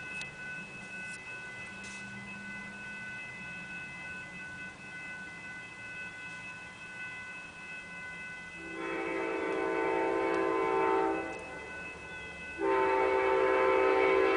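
Amtrak locomotive's multi-chime air horn sounding two long blasts: one starting about nine seconds in and lasting a couple of seconds, the next starting about a second later and still sounding at the end. A steady high ringing tone runs beneath, between and under the blasts.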